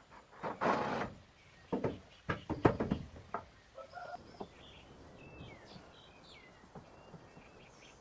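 A brief scraping rush, then a quick run of sharp knocks and clatter, followed by a few faint bird chirps.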